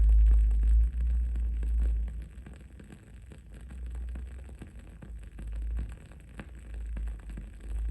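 Wooden candle wick crackling in many small, irregular pops, over a steady low rumble of background noise that swells near the start.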